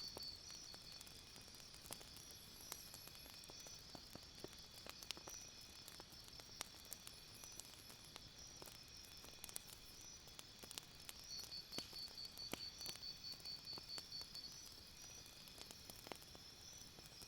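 Faint crickets chirping in a steady pulsing trill, louder for a few seconds past the middle, with scattered small crackles and pops of a campfire.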